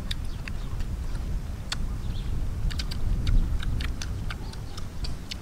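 People chewing and biting crispy deep-fried pork ribs: scattered sharp clicks and crunches over a steady low rumble of wind on the microphone.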